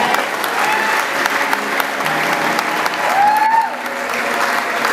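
Congregation applauding and cheering, a dense steady patter of clapping, with a voice giving a brief rising-and-falling shout about three seconds in.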